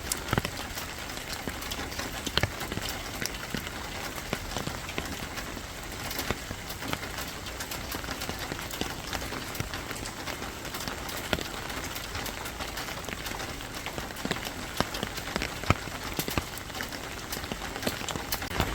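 Steady rain falling, with frequent sharp taps of single drops hitting a surface throughout.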